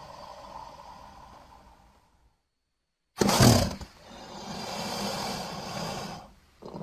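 Creature sound effects for a Sarcosuchus, a giant prehistoric crocodile. A low sound fades away, and after a second of silence a loud roar starts suddenly. A longer drawn-out growl follows and stops shortly before another call begins at the end.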